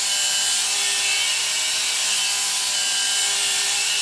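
Galvanized steel being cut: a steady, unbroken hissing cut with a few faint steady whining tones underneath and no pause.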